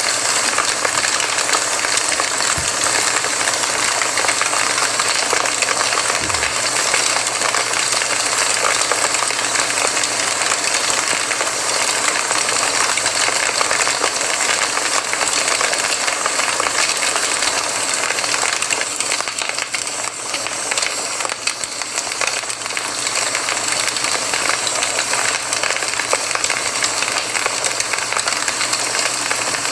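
Campfire crackling steadily: a dense run of small snaps and pops over a constant hiss.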